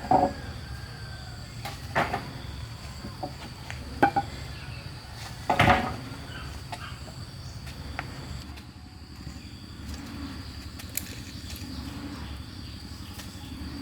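Four sharp knocks about two seconds apart, the last a longer clatter, followed by a faint steady insect drone.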